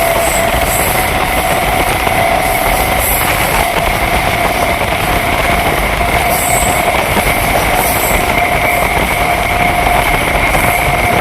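Midnapur–Howrah electric local train running through a curve: a loud, steady rush of wheels on rail with a steady whine held over it.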